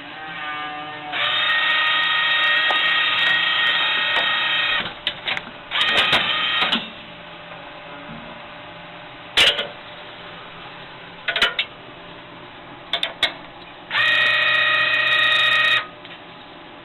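A machine whining at a steady pitch in bursts: one of about four seconds, a short one, and one of about two seconds near the end. A few sharp clicks fall in between.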